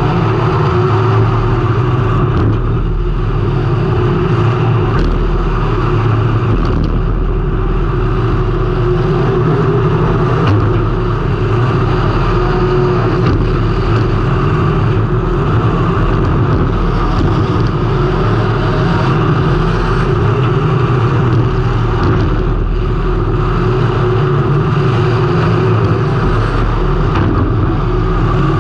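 Race car engine running hard during a heat race, heard through an on-car camera. It makes a loud, steady drone that rises and dips only slightly.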